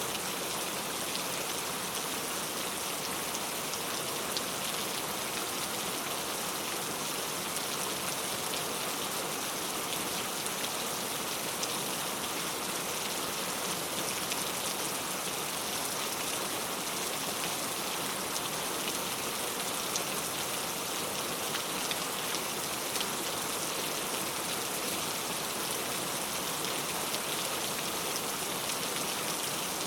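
Heavy rain falling steadily, a dense even hiss of rain on surfaces with small drop ticks throughout.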